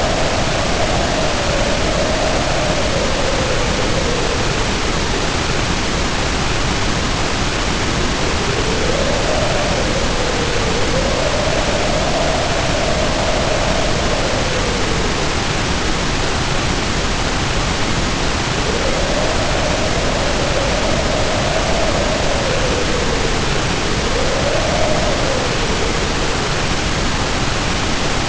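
Wind howling over heavy rain. A moaning tone swells, rises and falls in about three long gusts, over a constant hiss of pouring rainfall.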